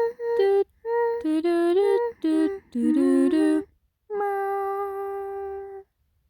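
A person's voice singing a short wordless tune in quick separate notes that step up and down, then holding one long steady note for nearly two seconds about four seconds in.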